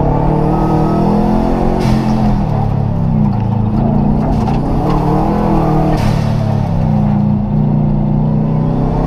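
Rally car engine heard from inside the stripped, caged cabin, revving up and down as the car is driven hard, with sharp breaks about two and six seconds in.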